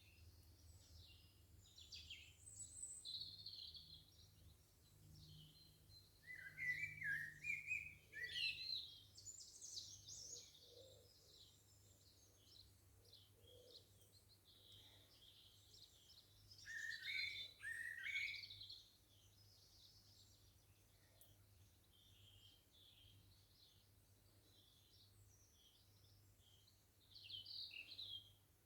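Faint garden birdsong: several birds chirping and singing in short phrases, with louder bursts of song about a third of the way in, again a little past halfway, and near the end.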